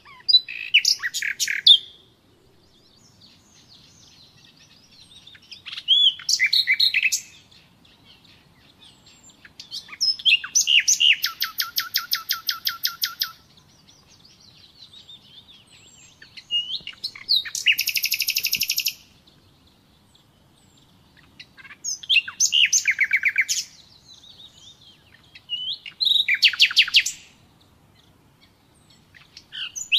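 Common nightingale singing: six loud phrases of fast repeated notes, each a second and a half to three seconds long, a few seconds apart, with faint whistles in between.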